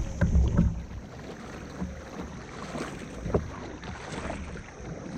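Wind buffeting the microphone in the first second, then water noise and light knocks around a kayak, with one sharper knock a little past three seconds in.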